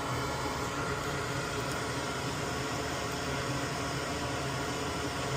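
Steady background hiss with a low hum underneath, unchanging and with no distinct knocks or clicks.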